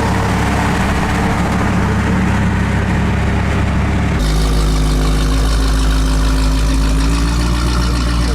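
Car engine idling steadily; about four seconds in the engine note changes abruptly to a different steady idle, with one tone rising slightly near the end.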